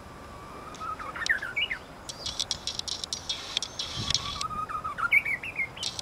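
Japanese bush warbler singing its 'hō-hokekyo' song twice, each time a long steady whistle followed by a quick rising, warbling flourish. It is an early-spring song, already fairly well formed. Rapid high chirps and clicks fill the gap between the two songs.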